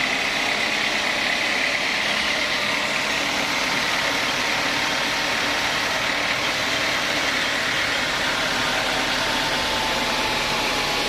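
Sawmill machinery running steadily, a constant even mechanical noise with no change in pitch or level.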